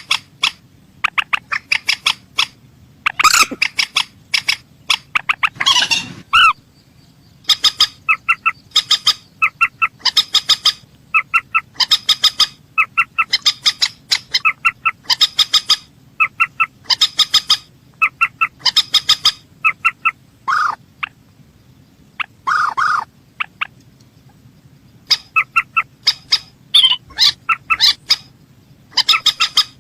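Calls of the rail known in Indonesia as mandar sawah: quick bursts of short, clipped notes, a handful at a time, repeated about once a second. A few longer, lower cries come in between.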